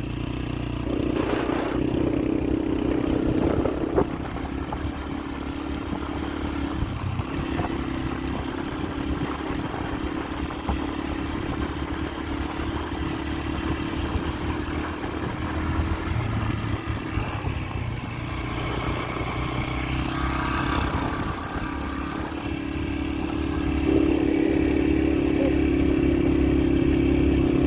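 Yamaha TT-R125LE dirt bike's single-cylinder four-stroke engine running steadily while being ridden, with rattling mixed in; the engine note swells louder about a second in and again near the end.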